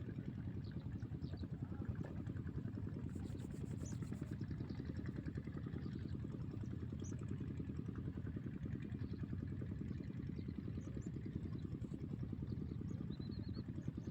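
An engine running steadily at idle, a low, fast, even pulsing drone, with a few faint short high chirps over it.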